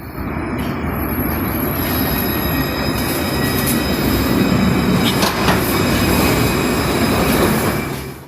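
Tram running on its rails with a steady rumble and a high, thin wheel squeal, with a few sharp clicks about five seconds in. It fades out near the end.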